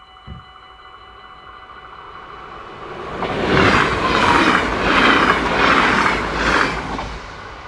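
A train passing a level crossing: it builds up, is loud for about four seconds with a rhythmic wheel clatter roughly every 0.7 seconds, then fades, over the steady ringing tone of the crossing's warning bells.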